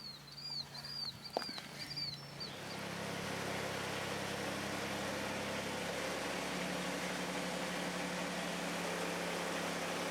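A small bird chirps a quick run of short rising-and-falling notes in the first two seconds or so. Then a steady hiss with a low hum, like a machine or engine running, sets in and holds.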